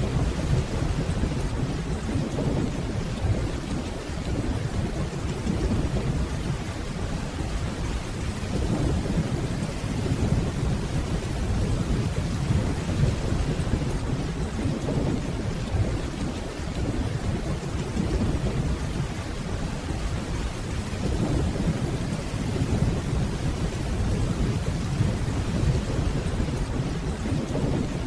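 Steady rainfall with a low, continuous rumble of distant thunder underneath.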